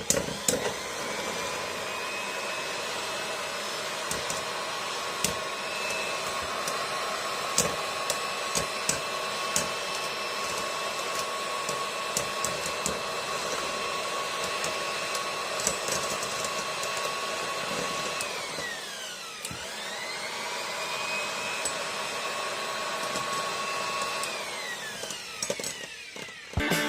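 Rock Leone 145WB Beyblade spinning top whirring steadily in a stadium, with a high whine that glides up at the start, dips and climbs again about two-thirds through, and sinks near the end, and scattered light clicks.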